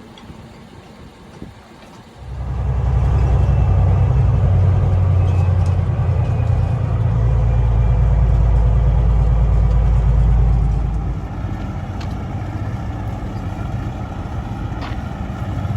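A semi truck's diesel engine comes up loud about two seconds in, runs steadily with a deep low throb, then drops to a quieter steady idle near eleven seconds in.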